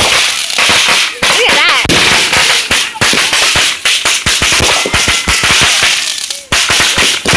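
Fireworks going off in a dense, continuous barrage: rapid overlapping bangs and crackling as rockets rise and shells burst.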